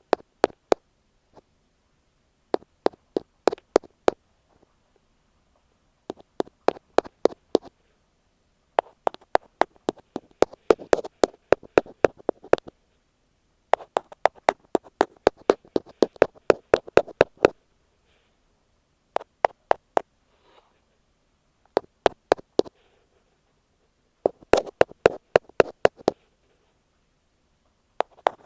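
An ear pick tapping rapidly on an earphone microphone: sharp clicks at several a second, in runs of one to four seconds with short pauses between.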